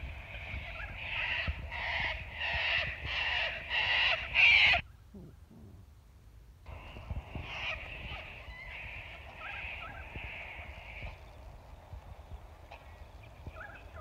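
Birds calling in a loud, rhythmic series of harsh calls, about one to two a second, building to the loudest call about four and a half seconds in and then cutting off. Softer calling of the same kind resumes a couple of seconds later and fades out.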